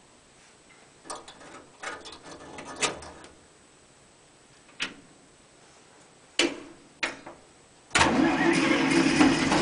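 Scattered clicks and knocks, then about eight seconds in the starter of a 1947 International Harvester KB-1's Green Diamond 214 flathead six begins cranking the cold engine, choke pulled. The cranking is loud and steady.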